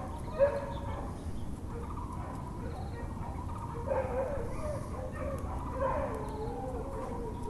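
Wavering animal calls from dogs and fowl over a steady bed of background noise: a short loud call about half a second in, then bursts of pitch-bending calls around four and six seconds in.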